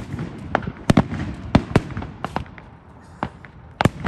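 Aerial fireworks shells bursting: about ten sharp bangs at uneven intervals over a low rumble, with the loudest about a second in and near the end.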